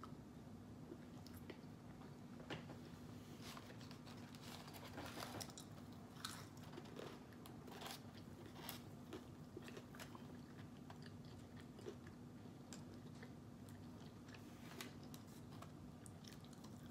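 Faint close-up eating sounds: chewing and biting into fried chicken and waffle, with scattered small crunches and wet mouth clicks over a low steady hum.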